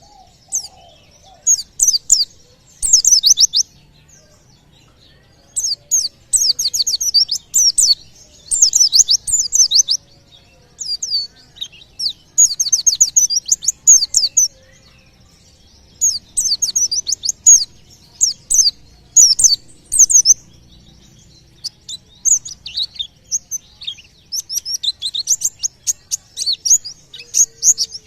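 White-eye (pleci) singing in fast, high trilled phrases of a few seconds each with short pauses between. This is the rapid 'tembakan' style of song that bird keepers play to get other birds singing.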